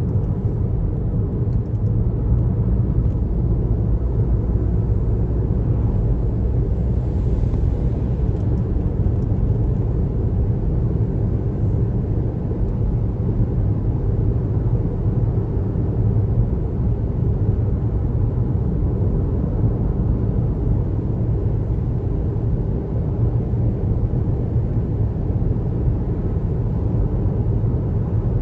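Steady low rumble of road and engine noise from a car driving.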